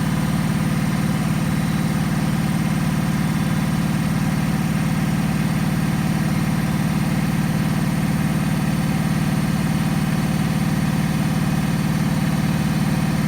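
Bosch Maxx WFL248Y front-loading washing machine on its final spin, its drum turning at a steady high speed with a loud, even hum. The load is slightly unbalanced.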